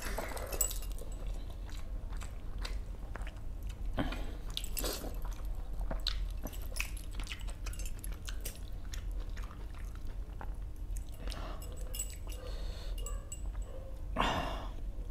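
A person chewing and eating a mouthful of rice and fish masala close to the microphone, with irregular small wet clicks and smacks, and a brief louder sound near the end.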